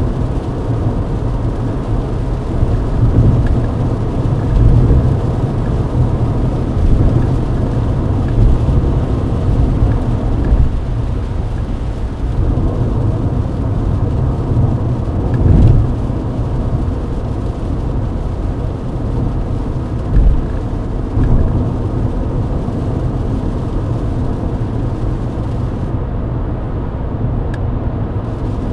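Mercedes-Benz W124 E-Class driving at highway speed in the rain: a steady low rumble of engine and tyres on the wet road, with a few brief louder swells.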